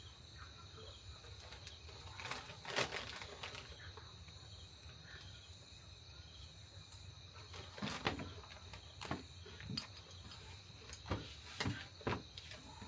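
Insects chirring steadily in the background, with scattered knocks and rustles of things being handled, the loudest about three seconds in, around eight seconds and near the end.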